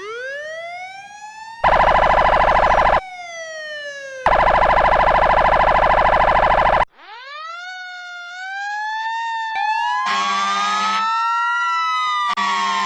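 Emergency vehicle siren winding up and falling in a wail, cut by two long, loud, harsh horn blasts in the first seven seconds. Then a second recording: a siren winds up again and wails slowly up and down, with another siren wailing over it and short harsh horn blasts near the end.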